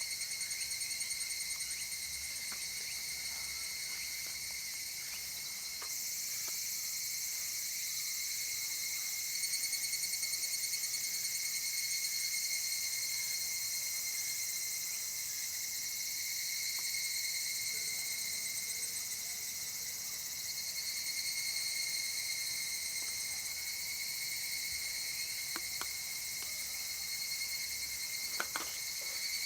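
Steady chorus of summer insects, likely cicadas, buzzing in several high-pitched layers at once, with one fast-pulsing trill growing louder about a third of the way in. A couple of faint clicks come near the end.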